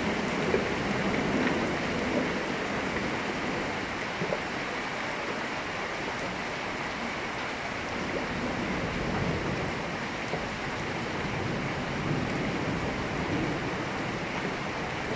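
Thunderstorm rain falling steadily, an even hiss with no breaks.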